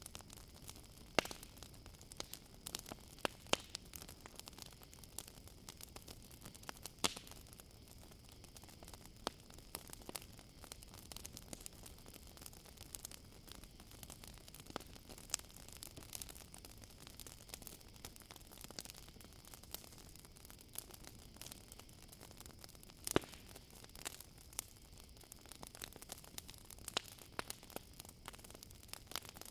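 Campfire crackling with irregular snaps and pops, a few louder ones about a second in, around three and a half and seven seconds in, and again past the twenty-second mark. Behind it a steady high chirring of crickets.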